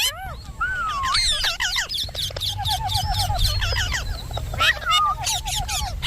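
Indian ringneck parakeet chattering: quick whistled glides and squawks, broken twice by a rapid rattling trill, over a low rumble.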